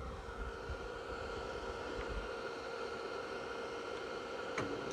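Built-in fan of a Gasmate battery-powered ducted propane heater running steadily with a constant whine, and a single sharp click near the end.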